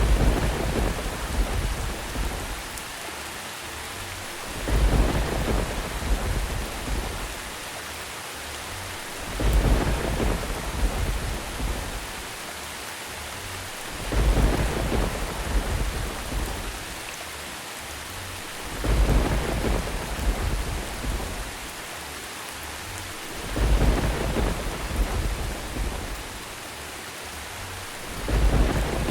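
Steady heavy rain with a low rumble of thunder swelling up at very even intervals, about every four to five seconds, seven times in all, like a looped thunder track.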